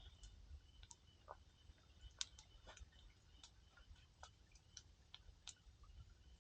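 Wood fire crackling: faint, sparse pops and snaps at irregular intervals, one a little louder a bit over two seconds in.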